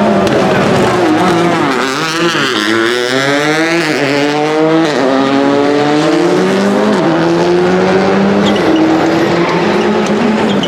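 Rally car engine revving high: it drops back once under braking, then accelerates through the gears, the pitch climbing and falling back sharply at each of three upshifts.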